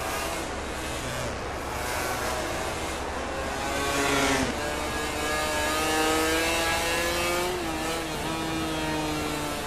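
MotoGP racing motorcycles' four-cylinder engines at high revs, the pitch climbing as they accelerate, dropping briefly near the end at a gear change.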